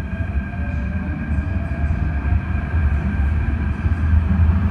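MTR electric train pulling out of the station and gathering speed: a low rumble that grows louder, with steady high whining tones and a tone rising in pitch as it accelerates.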